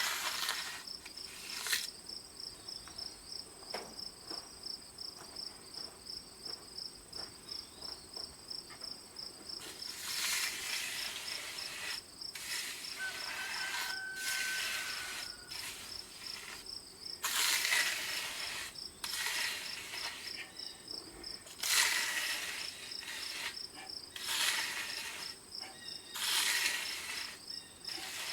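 Crickets chirping steadily in a fast high pulse. Several hissy sweeps, each a second or two long, come and go over them.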